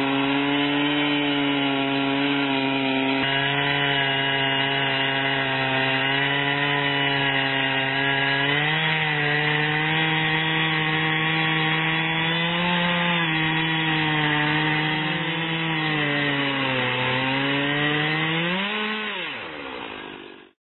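Two-stroke chainsaw running at full throttle under load, ripping lengthwise along a log in a chainsaw mill. The engine note holds steady, sags near the end, then rises as the chain frees up, and fades out.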